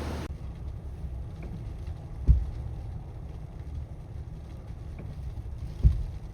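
Strong tropical-storm wind buffeting the microphone: a steady low rumble, with two heavier gust thumps, one about two seconds in and one near the end.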